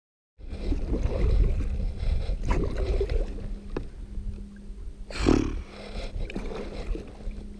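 Water sloshing and splashing around an inflatable kayak, with low wind rumble on the microphone and scattered small knocks; one louder, short burst of splashing comes a little after five seconds in.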